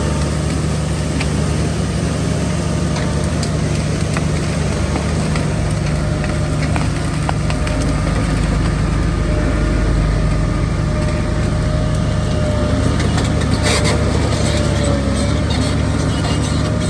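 Heavy earthmoving machine's diesel engine running steadily under load, with scattered clanks and knocks and one louder knock about three-quarters of the way through.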